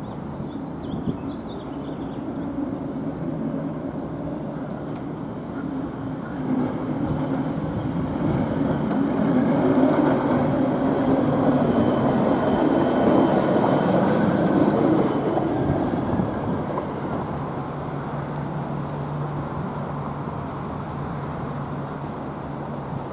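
NJ Transit commuter train running past on the North Jersey Coast Line, a rumble of wheels on rail that builds to its loudest about ten seconds in and then fades away.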